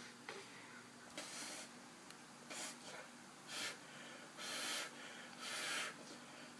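About five short breathy puffs, spaced a second or so apart, like sniffs or snorts of breath.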